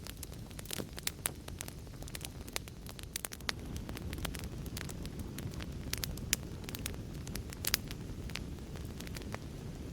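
Fireplace fire crackling: frequent irregular sharp pops and snaps over a steady low rumble of burning.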